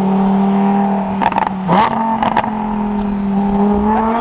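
Lamborghini Huracán Sterrato's V10 engine running at a steady cruise, dipping and then stepping up in pitch about a second and a half in, with a few short rushes of noise around the middle. Near the end it rises steadily in pitch as the car accelerates.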